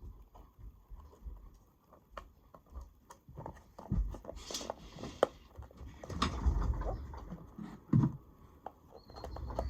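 Irregular clicks, taps and rustling of small objects being handled up close, getting busier and louder about four seconds in.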